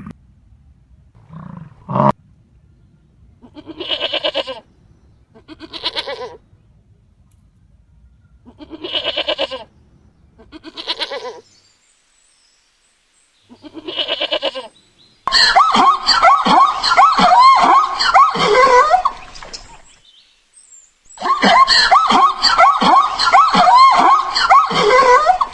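Goats bleating: a string of separate wavering bleats about a second each, then from about fifteen seconds in a loud, dense chorus of overlapping animal calls in two long stretches.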